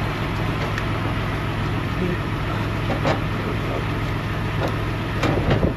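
Steady low drone of a diesel truck engine idling, with a few short metallic knocks around the middle and near the end.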